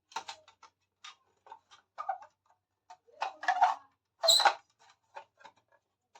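Small plastic pieces of a miniature toy kitchen set clicking and tapping as they are handled, in irregular light ticks with two busier clusters past the middle.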